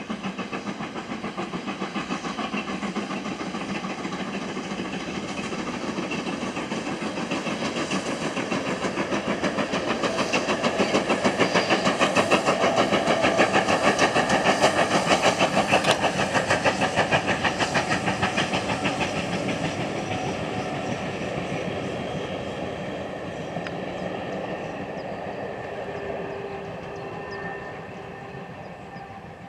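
Two GWR Manor class 4-6-0 steam locomotives, 7828 and 7802, double-heading a train past: rapid, even exhaust beats and rail noise build to a peak about halfway through, then fade as the train goes away.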